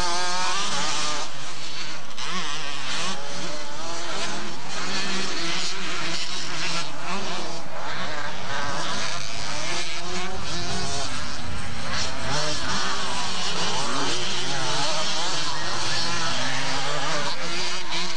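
Several motocross motorcycle engines racing together, their pitches repeatedly rising and falling as the riders rev through gears and throttle on and off.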